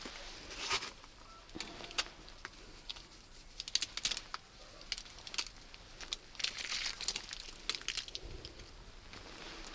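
Snow crunching and crinkling in irregular bursts, with scattered sharp clicks.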